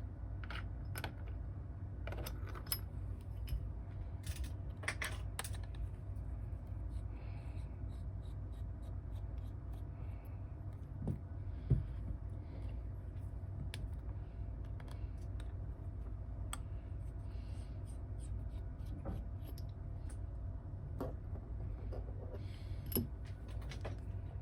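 Scattered small clicks, ticks and taps of tools and small parts being handled on a workbench during smartphone repair, with a louder knock about halfway through, over a steady low hum.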